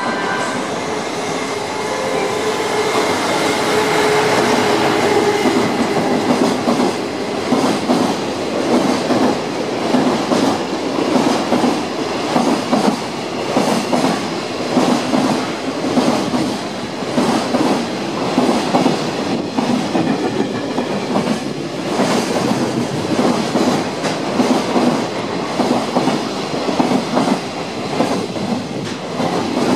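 JR Freight Class EF210 electric locomotive and its intermodal container wagons passing through without stopping. A whine sounds for the first few seconds as the locomotive goes by, then the wagons' steady rumble and rhythmic clickety-clack of wheels over the rail joints carry on to the end.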